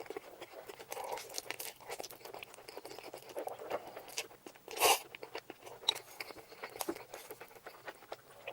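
Close-miked eating sounds of a person eating spicy fire noodles: wet chewing and many small mouth clicks and crunches, with one louder burst just before five seconds in.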